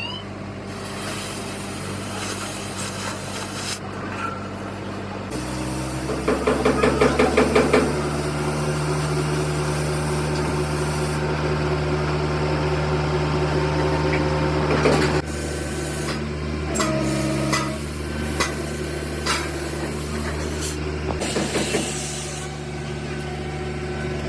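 Steady machine hum that shifts pitch about five seconds in, with a fast run of rapid rattling strokes around six to eight seconds in and scattered knocks and scraping from metal tool work.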